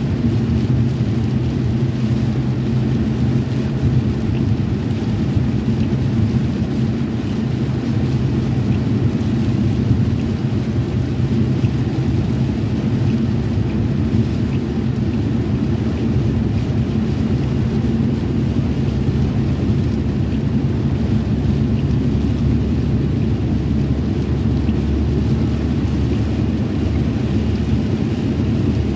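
Steady, unbroken low rumble of a car driving, with road and engine noise heard from inside.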